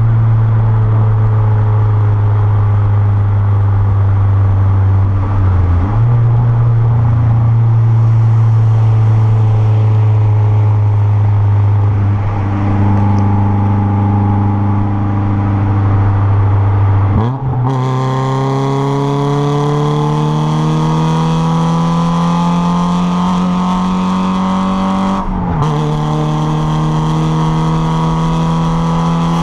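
Exhaust of a Renault Clio 1.6 16v K4M four-cylinder through a straight 2-inch pipe, running at steady revs, then accelerating with the pitch climbing. It shifts up a little past halfway and again near the end.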